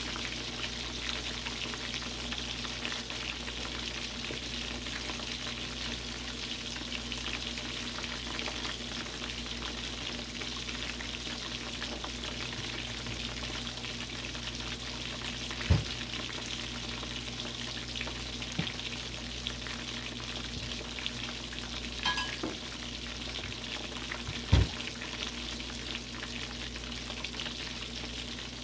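Chicken leg quarters frying in oil: a steady crackling sizzle. Two sharp knocks come in the second half, with a brief clatter between them.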